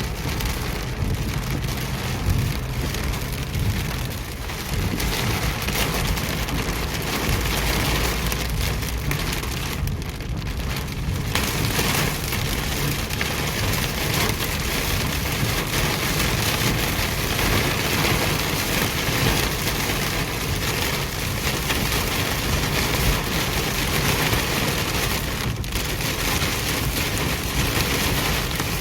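Heavy rain pouring down, a dense steady hiss with a low rumble underneath. It turns brighter and heavier about eleven seconds in.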